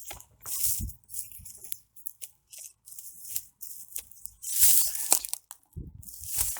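Footsteps crunching on rough ground: a few irregular crunching steps, with a pause of a couple of seconds in the middle.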